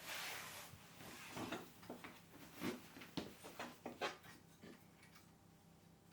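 A brief rustle, then a run of irregular light knocks and clicks that die away after about four and a half seconds.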